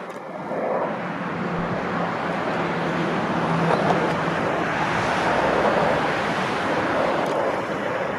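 A Pilatus PC-21's turboprop engine and propeller running as the aircraft comes in to land: a steady rushing noise that swells about half a second in, with a faint low hum under it for the first few seconds.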